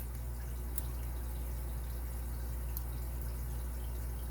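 Steady low hum with a few faint, sparse ticks of a lock pick working the pin stack of a padlock under light tension.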